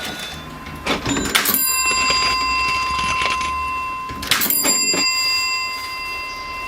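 Vintage mechanical cash register being worked: two pairs of sharp mechanical clunks, about one second in and again about four seconds in, with a bell ringing that hangs on as steady tones. A low rumble runs under the first few seconds.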